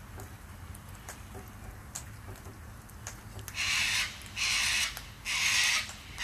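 Cockatoo giving three loud harsh screeches in quick succession, each about half a second long, starting a little past halfway; before them only faint scattered clicks.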